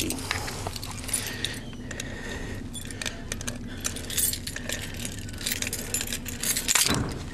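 Light metallic jangling and clinking, many small clicks over a steady low hum, with a louder clatter near the end.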